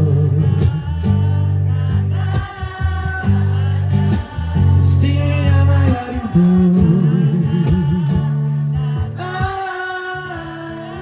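Live acoustic music: a singer holding long, wavering sung notes over acoustic guitar, growing quieter over the last few seconds as the song winds down.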